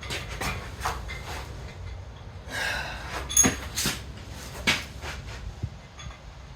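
Tools and metal engine parts being handled, giving a string of sharp clinks and knocks, with a short breathy rush of noise about halfway through.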